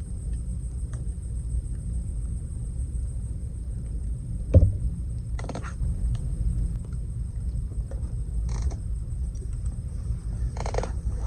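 Wood campfire crackling, with scattered faint pops and a few brief louder flares over a steady low rumble. A single thump comes a little before halfway through.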